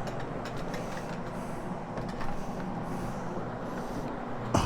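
Rotary floor machine running with a hog's hair pad scrubbing carpet: a steady motor hum under a rough brushing hiss, with a short sharp click near the end.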